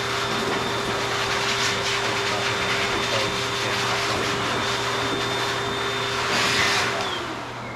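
AIIYME high-velocity dog grooming dryer (4.3 HP, 3200 W) blowing with a steady rush of air and a steady high whine. About seven seconds in it is switched off and its pitch falls as the motor spins down.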